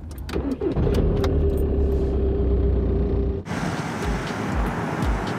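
Car engine running with a deep rumble and a steady hum, its pitch rising briefly about half a second in. About three and a half seconds in it changes suddenly to a noisier sound with a regular low thump, about two to three a second.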